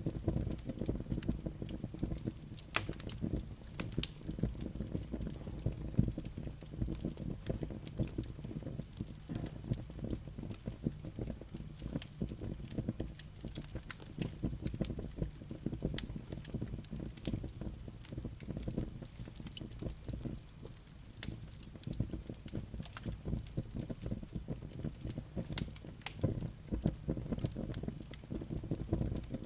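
Wood fire burning in a fireplace, with a steady low rumble of flames and dense, irregular crackles and pops from the burning logs and embers.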